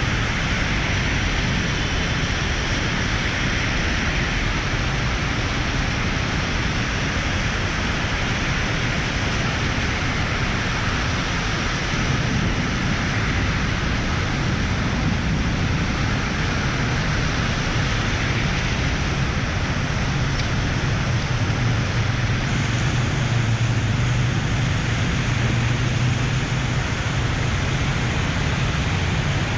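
Steady rush of wind and road noise from a moving motorcycle, with a low engine drone underneath that grows a little stronger in the second half.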